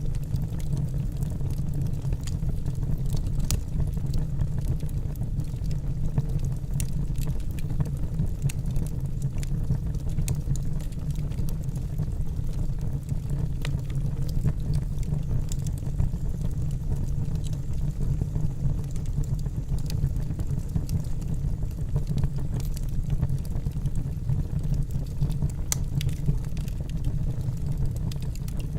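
Wood fire burning in a fireplace: a steady low rush from the flames with scattered, irregular sharp crackles and pops from the burning logs.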